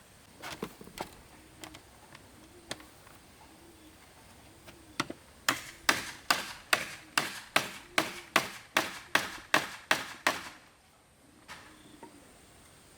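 A tool striking wood or bamboo: a few scattered knocks, then a quick even run of about a dozen sharp strikes, roughly three a second, that stops about ten seconds in. A dove coos faintly and steadily underneath.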